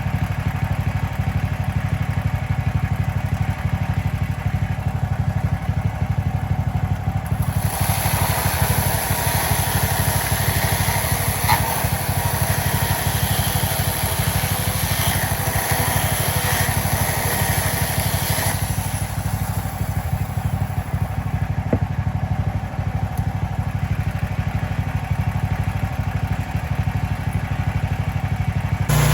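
Gas engine of a Mechmaxx band sawmill running steadily; from about a quarter of the way in until just past the middle, a brighter rushing noise joins it as the band blade cuts through a log.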